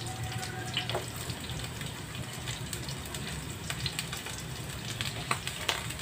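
Oil sizzling and crackling in a frying pan as chopped red onion and garlic go into the hot fat beside slices of Chinese sausage frying to render their oil. A steady hiss with scattered sharp pops.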